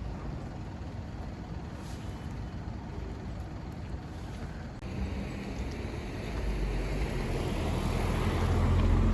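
Street traffic noise. After an abrupt change about five seconds in, a motor vehicle's engine rumble grows steadily louder as it draws near.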